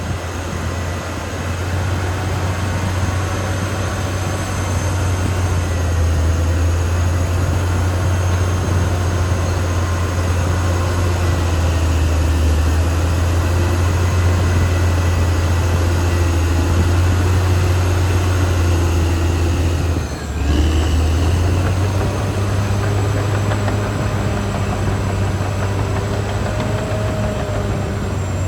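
Caterpillar D6R XL bulldozer's diesel engine running steadily under load with a deep, even drone, a steady high whine from the tracks and drivetrain over it. The sound dips briefly about twenty seconds in, then carries on.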